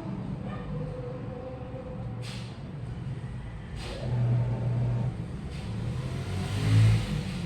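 Washing machine running: a steady low motor hum that swells and eases, with two brief swishes in the first half.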